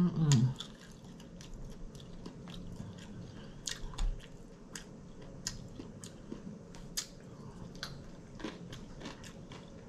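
A person chewing and crunching tortilla chips loaded with nacho cheese and toppings, close to the microphone. Scattered crisp clicks sound through the chewing, the sharpest about four and seven seconds in.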